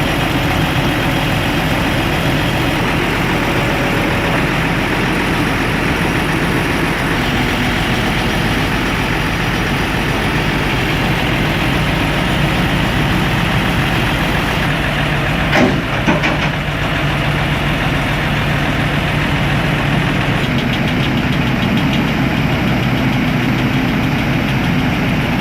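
Heavy-equipment diesel engine running steadily at idle, with one short sharp knock about sixteen seconds in.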